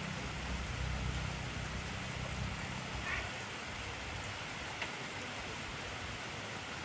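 Heavy rain falling steadily, an even hiss with a few distinct drop ticks. A low rumble under it for the first couple of seconds dies away.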